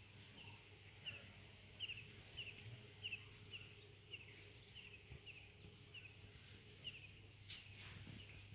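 A small bird chirping, a short high note repeated about twice a second, over a low steady hum, with a couple of soft handling knocks near the end.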